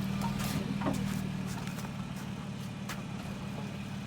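A vehicle engine running steadily at low revs, with a few light clicks and rattles over the hum.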